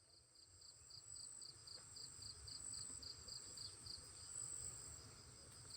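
Near silence, with crickets chirping faintly in an even, quick pulse, about five chirps a second, over a faint steady high tone.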